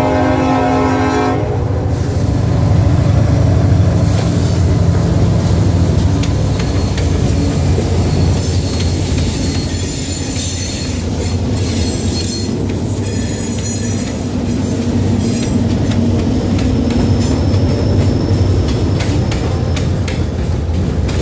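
Freight train with diesel locomotives passing close: the horn sounds and cuts off about a second and a half in. The engines' low rumble follows, then the freight cars rolling by with a thin high wheel squeal and clicking over the rail joints.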